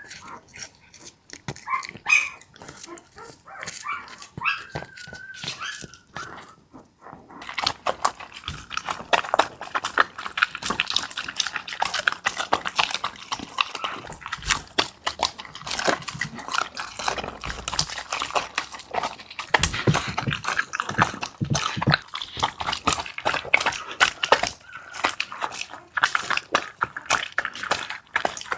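A small dog whimpering in short, high, wavering calls. From about seven seconds in come long runs of rapid, dense clicks and crunches.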